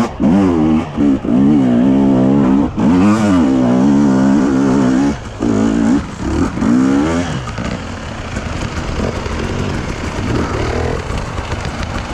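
Enduro motorcycle engine being ridden hard, its pitch rising and falling with the throttle and dropping away briefly twice as the throttle is shut. From about seven seconds in the engine note falls back and a rougher, steady noise remains.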